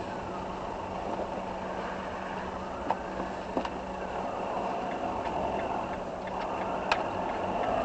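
Steady vehicle running and road noise, as heard by a car's dashcam, with a constant low hum and a few light clicks.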